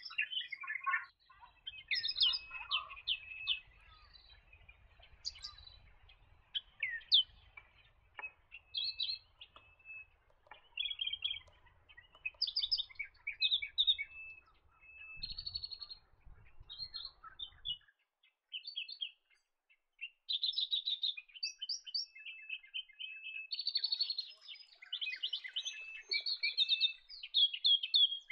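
Australian reed warbler singing: a varied song of short chirping notes and fast repeated-note runs, delivered in phrases with brief pauses between them.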